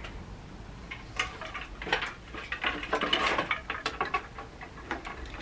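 A hand stapler clicking irregularly as a string of Christmas lights is stapled onto a basket, with small rattles and rustling from handling the lights.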